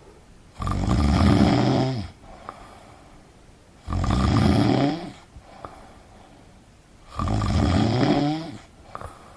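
A person snoring: three loud snores about three seconds apart, each lasting just over a second, with quieter gaps between them.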